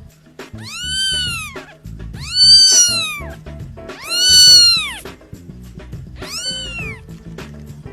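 A cat meowing four times, each a long drawn-out meow that rises and then falls in pitch, over background music.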